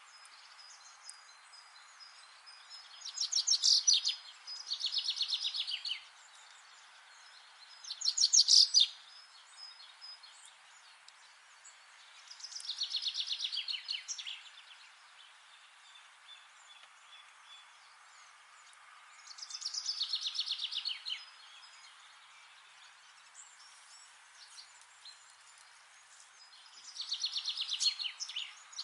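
A songbird singing, about six short trilled phrases of quickly repeated high notes, each a second or two long, spaced several seconds apart. A steady soft hiss runs underneath.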